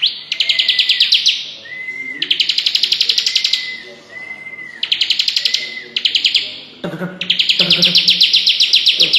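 Bar-winged prinia (ciblek) singing its rattling 'cetrekan' song. It gives repeated phrases of fast, dry chattering, each about a second long, with short whistled notes between them.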